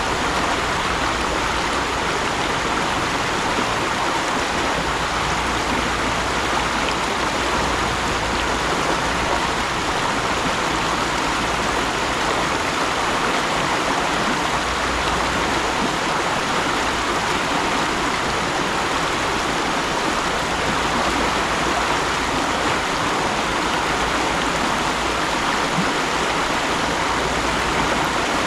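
Mountain stream running over rocks, a steady rushing and babbling of water.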